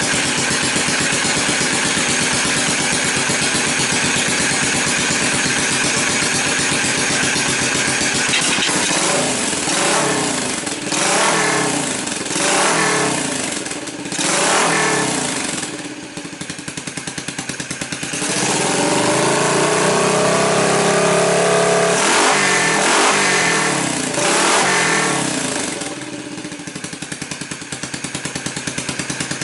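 Yamaha SR400's air-cooled single-cylinder four-stroke engine running: steady for the first several seconds, then blipped on the throttle again and again, held at higher revs for a few seconds, blipped twice more and let back down to idle near the end.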